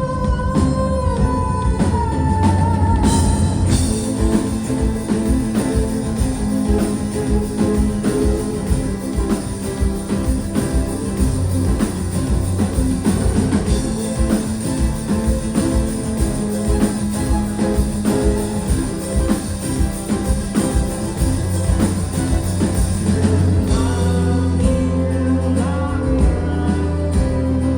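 Rock band playing live, loud, with drum kit and guitars and a singing voice at times.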